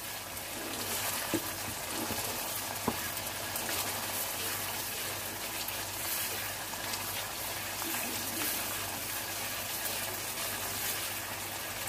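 Onion, yogurt and spice masala sizzling in oil in a wok while a wooden spatula stirs it, with a couple of light knocks of the spatula in the first few seconds. The masala is well fried down, with the oil separating out.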